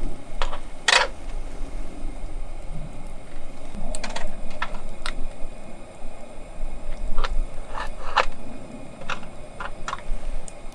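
Wood campfire crackling: a dozen or so sharp, irregular pops and snaps over a low background rumble.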